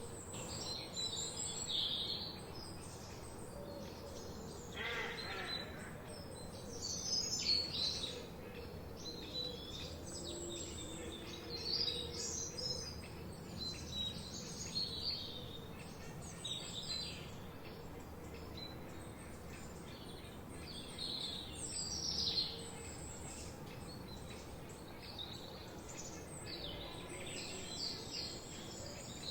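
Several songbirds chirping and trilling, many short high calls overlapping over a steady background hiss of forest ambience.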